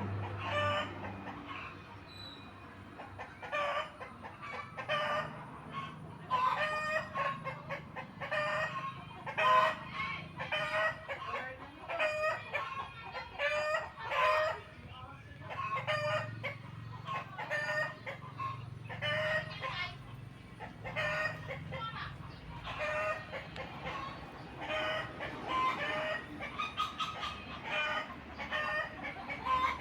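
Short animal calls, repeated one to two times a second and going on throughout, with a faint low hum in the background.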